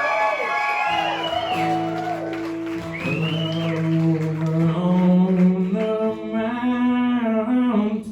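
Live band music: acoustic guitar and held low notes under a voice or lead instrument drawing out long, gliding notes, with no words sung.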